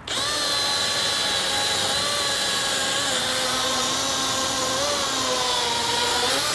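Battery-powered DeWalt electric chainsaw running at full speed, a steady whine over the hiss of the chain, starting and stopping abruptly with no engine spin-up. Its pitch sags slightly twice, as it does when the chain bites into wood.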